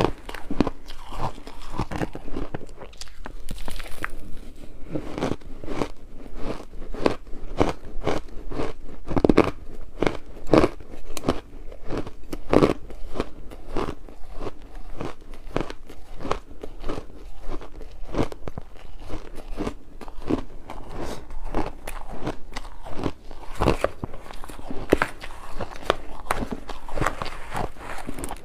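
Ice being bitten and chewed close to the microphone: a fast, irregular run of sharp crunches, several a second.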